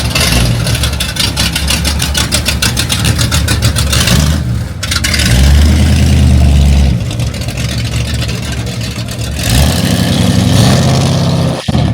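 Car engine revving repeatedly, a loud deep rumble that surges twice, about halfway through and again near the end.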